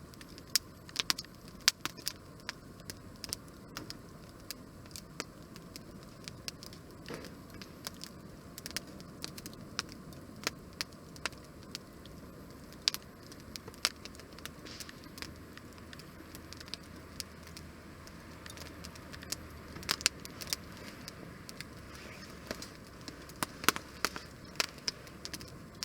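Wood fire burning, crackling with irregular sharp pops over a low steady hiss.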